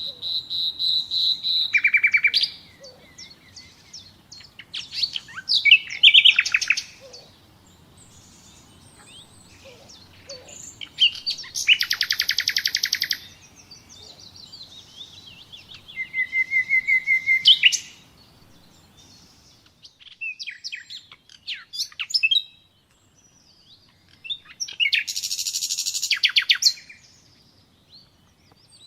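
Common nightingale singing: about six phrases of two to three seconds each, built of rapid repeated notes and trills, with pauses of a few seconds between them.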